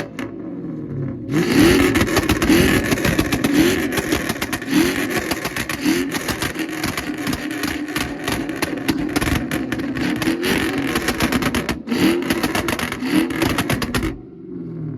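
A car engine revved hard again and again, each rev rising in pitch, with rapid popping from the exhaust; it starts about a second in and cuts off suddenly near the end.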